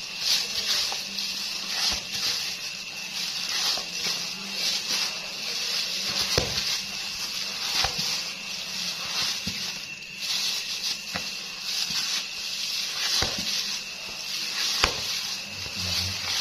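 Carp bait dough being stirred and kneaded by hand: a steady rustling hiss with irregular soft knocks as the mix is worked.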